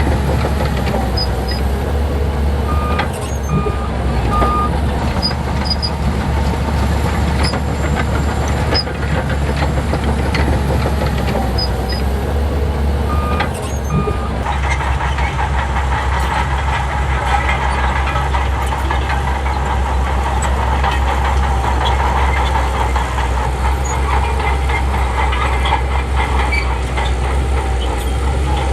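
Heavy diesel engine of a crawler bulldozer running under load, with steady clatter from its steel tracks. It gets louder and busier about halfway through. A few short, high beeps sound near the start and once around the middle.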